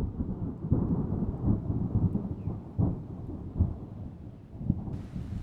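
Thunder rumbling in long, uneven rolls, with a steady hiss of rain coming in suddenly about five seconds in.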